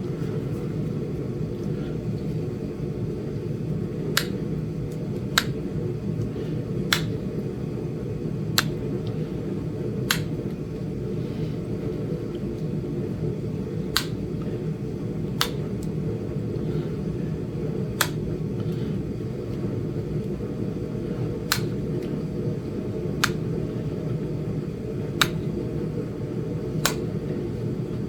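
Indirect-percussion flintknapping on a small Flint Ridge chert biface: about a dozen sharp, separate clicks as a hammer strikes a punch set on the stone's edge, mostly 1.5 to 2 seconds apart, with a longer gap in the middle. A steady low hum runs underneath.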